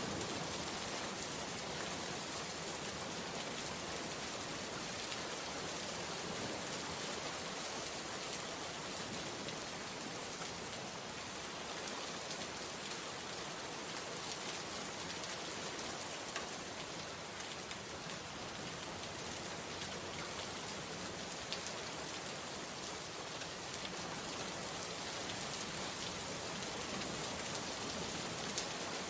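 Steady rainfall, an even hiss of rain on a surface, with a few single drops ticking out more sharply now and then.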